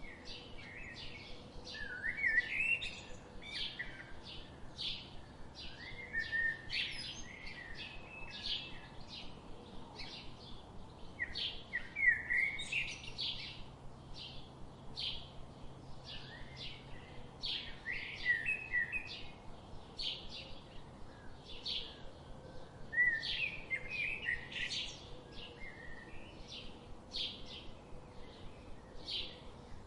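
Birds chirping and singing: a steady run of short high chirps, about two a second, with louder warbling song phrases breaking in every few seconds.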